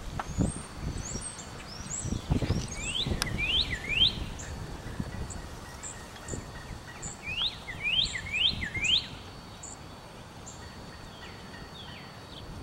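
Birds chirping: two runs of three or four quick rising chirps, a few seconds apart, among short high notes. A low rumbling noise is heard in the first few seconds.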